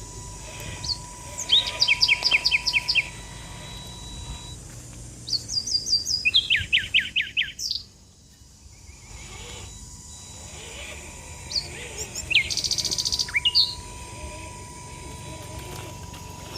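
Birds singing: several bursts of rapid, repeated chirping notes, with quieter spells between them. A faint steady high tone runs underneath.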